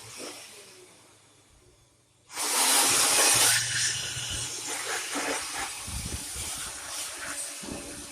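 Cordless battery-powered blower cut in about two seconds in: a sudden loud rush of air blowing into a desktop computer, strongest for about a second, then running on a little lower with a few light knocks.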